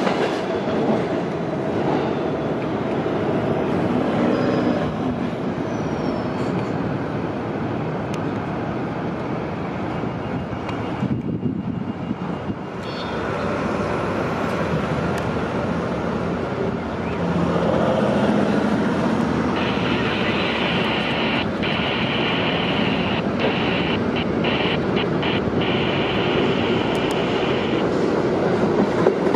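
New York City Subway train running on the IRT Broadway Line, a long steady rumble of wheels on rail, with a steady high-pitched tone joining it for about eight seconds in the second half.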